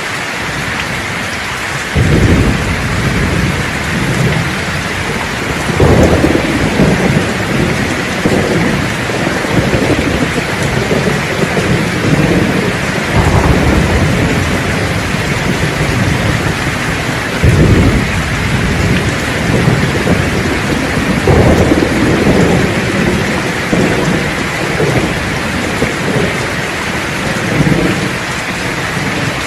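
Thunderstorm: steady rain hissing, with thunder rolling through it again and again. Sudden deep peals break in about two seconds in and again near the middle, each rumbling on for a few seconds.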